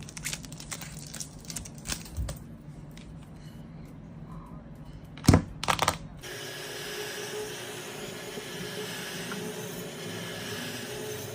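Small metal tools clicking and tapping against a phone during a back-glass repair, with a sharp knock about five seconds in. After that the sound cuts to a steady machine hum with a faint held tone.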